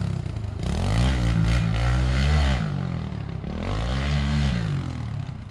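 Kawasaki KLX110 pit bike's small single-cylinder four-stroke engine revving up and easing off about three times, with some clatter, fading near the end.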